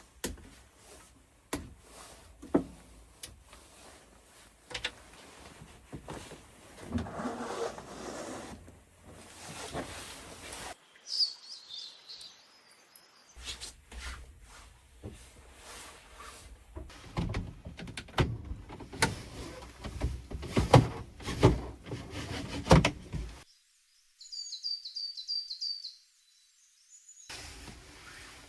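A run of knocks, bumps and handling clatter, with small birds chirping in short repeated high notes during two quieter stretches.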